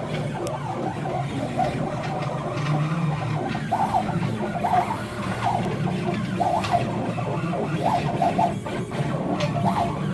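CNC machine's stepper motors driving a drag knife through foam board: a steady low hum with short, irregular whines as the axes start and stop.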